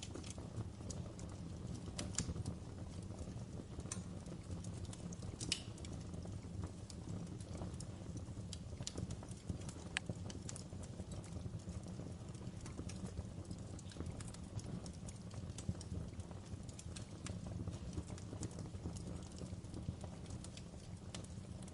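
Wood fire burning in a fireplace: a steady low rumble with irregular crackles and pops, a few louder than the rest.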